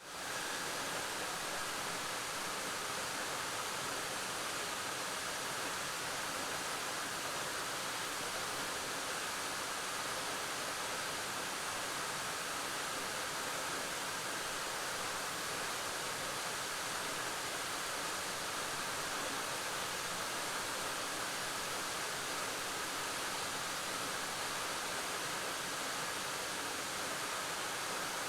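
Waterfall pouring steadily: an even rush of falling water that fades in at the start and holds unchanged.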